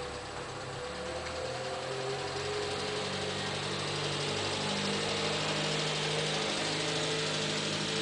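Renault 9 car engine running as the car drives up the street, getting louder as it comes closer.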